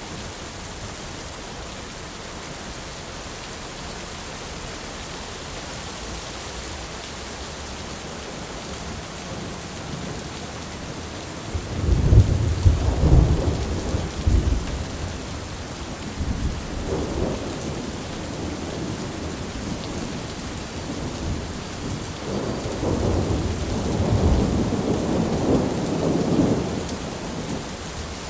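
Thunderstorm: steady rain with two long rolls of thunder, the first about halfway through and the second, longer one near the end.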